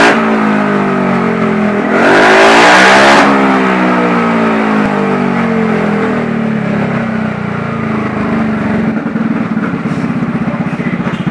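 Yamaha XMAX 250 scooter's single-cylinder engine running through an aftermarket RX8 full-system racing exhaust. It is revved about two seconds in, then the pitch sinks slowly back down to a pulsing idle.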